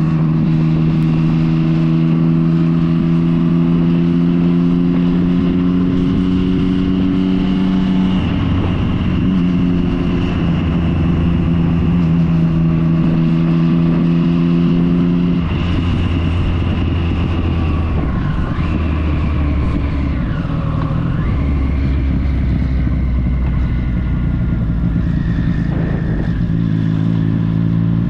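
Motorcycle engine running while being ridden on the road, its note holding steady and then changing pitch abruptly several times, like gear changes.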